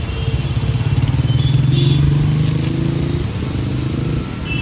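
A motor vehicle's engine passing close by in street traffic. Its drone grows louder to a peak about two seconds in, then fades.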